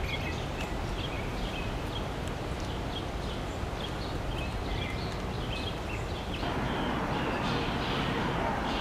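Outdoor ambience: a steady background hiss with scattered short, faint bird chirps. About six seconds in, the background noise steps up louder.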